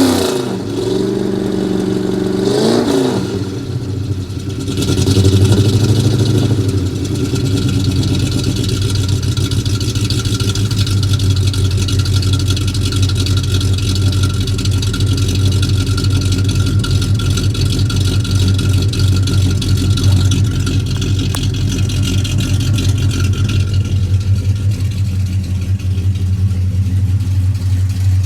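Ford F-250 engine blipped up and down a few times in the first three seconds, then settling about five seconds in to a steady, even idle. The exhaust still has a leak.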